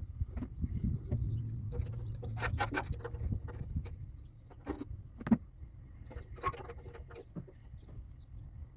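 Scattered clicks and knocks of hand tools on metal during cleaning work, with one sharper knock about five seconds in, over a low rumble.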